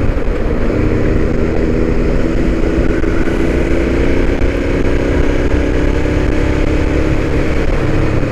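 Motorcycle engine running at a steady speed under way, with a heavy low rumble of wind on the microphone.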